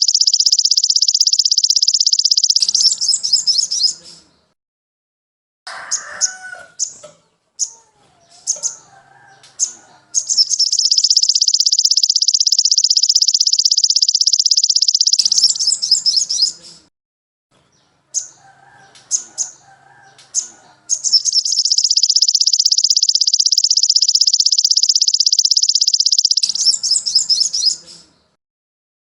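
Songbird song played as a looped training recording: a long, rapid, high trill lasting about five seconds, then a run of short sharp chirps and lower warbling notes. The cycle repeats three times, with abrupt breaks between sections.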